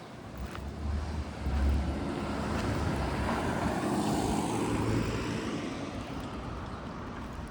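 A motor vehicle passes close by on the street, its engine rumble and tyre noise swelling about two seconds in, sweeping past, then slowly fading.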